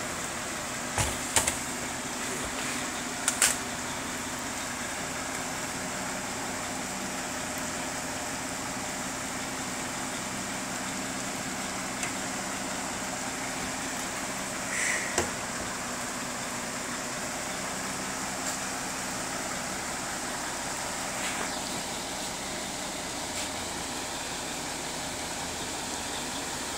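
Steady hiss of heavy rain, with a log truck's engine idling faintly underneath. A few sharp clicks come about a second and three seconds in, and a short knock near the middle.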